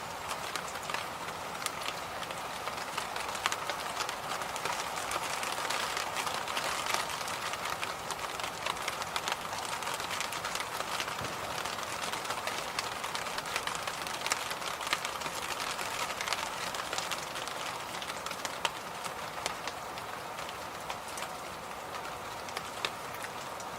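Electric fan running steadily, a constant rush of air with a band of hum, with irregular light clicks or rattles scattered through it.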